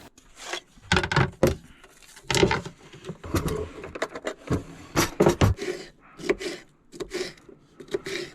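Irregular knocks, clicks and clatter of food preparation in a small kitchen space, as containers, utensils and ingredients are handled and set down.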